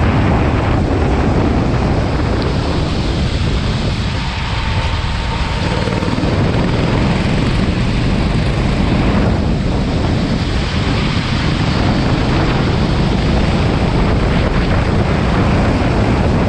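Kart running on a wet track, its engine mostly buried under loud, steady wind buffeting on the microphone, with a brief easing about four seconds in.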